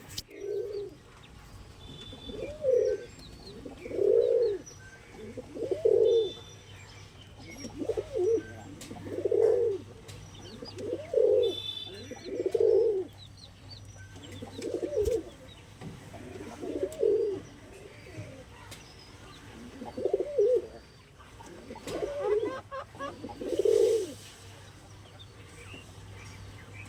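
Domestic pigeons cooing, a low coo repeated about every one and a half to two seconds, with faint high chirps in between.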